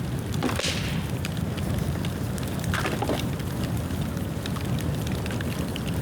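Bonfire of dry dead bamboo burning: a low steady rush of flame under constant fine crackling, with louder sharp pops about half a second in and again about three seconds in.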